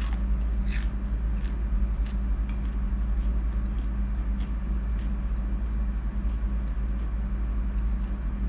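A steady low rumble with a constant hum above it, and scattered soft clicks of someone eating battered squid.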